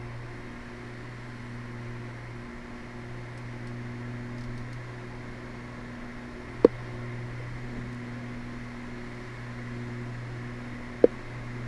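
Steady drone of the Twin Cessna 320's twin engines heard inside the cabin, with two sharp short clicks, one about two-thirds of the way in and one near the end.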